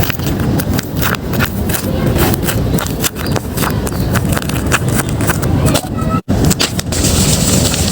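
Paper bags being handled and torn open close to the microphone: constant crinkling and crackling of paper and tape, with a brief cut-out about six seconds in.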